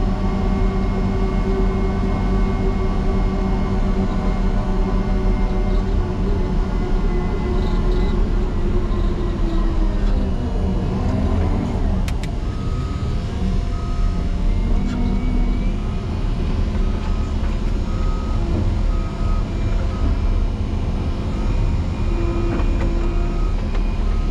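Motor grader's diesel engine running hard while pushing snow, its note dropping lower about ten seconds in. Then the backup alarm beeps steadily for several seconds as the grader reverses for another run at the drift.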